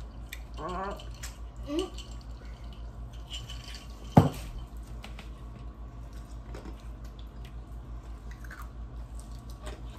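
Close-up eating sounds: chewing and small wet mouth clicks from people eating fried chicken, with a couple of short hummed voice sounds in the first two seconds. A single sharp thump about four seconds in is the loudest sound.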